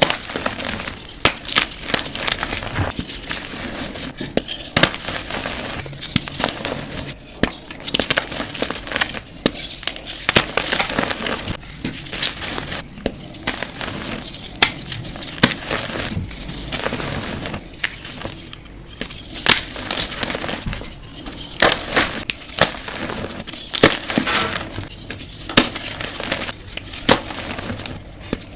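Blocks of gym chalk being crushed, crumbling with dense, dry crunching and crackling and many sharp snaps throughout.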